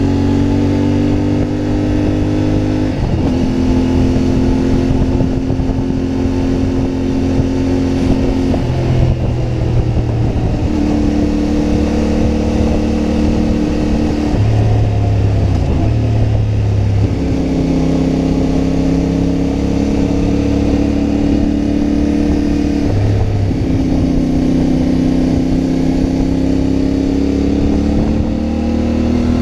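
CFMoto 450MT motorcycle's parallel-twin engine under way. The pitch climbs steadily and then drops sharply as the rider shifts up, about five times, with a couple of short falls off the throttle in between.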